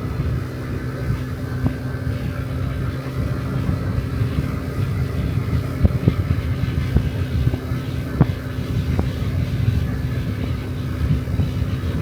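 Honda Dio Cesta AF68 50cc scooter's four-stroke single-cylinder engine running at a steady speed while riding, under wind rumble on the microphone. A few short sharp clicks come through about halfway and later.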